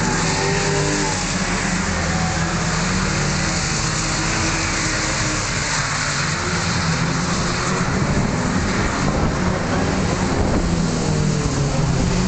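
Drift cars' engines revving up and down over a steady hiss of tyres and spray on a wet track, including a BMW 3 Series coupe sliding past.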